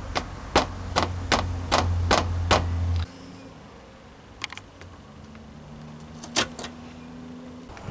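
Sharp taps on the sheet metal of a car's front wing, about two or three a second, as the torn metal around the hole is knocked back into shape. The tapping stops about two and a half seconds in, a steady low hum cuts off just after, and two single taps follow later.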